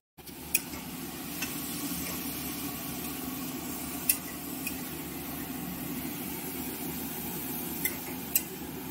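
Red amaranth greens sizzling steadily in mustard oil in a kadai, with a few sharp clicks scattered through.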